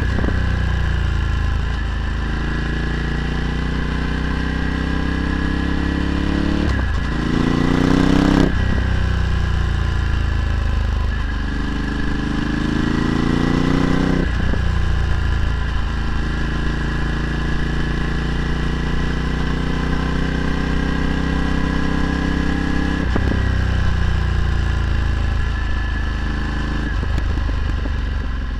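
Ducati Multistrada 1260's L-twin engine through a Termignoni exhaust while riding, revs climbing and falling with several sharp breaks at gear changes. It is loudest at about eight seconds in.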